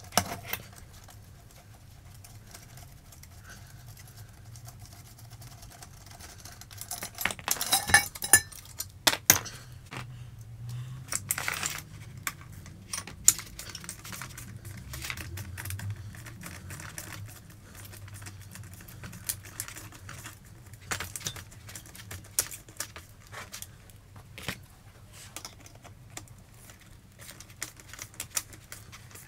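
Scattered metallic clinks, taps and rattles of motorcycle exhaust pipes and hand tools being handled, with a dense run of sharp clicks about seven to nine seconds in and more a few seconds later. A faint steady low hum runs underneath.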